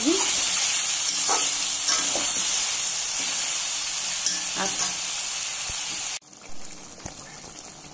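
Chicken pieces sizzling in hot oil and masala in a large kadai, with a few spatula scrapes against the pan as the meat is stirred. About six seconds in the sizzle cuts off suddenly, leaving a much quieter hiss.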